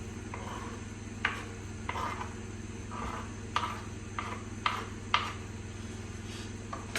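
A metal kitchen utensil stirring milk, flour and grated cheese in a saucepan for a cheese sauce, clicking and scraping against the pan at irregular moments. A steady low hum runs underneath.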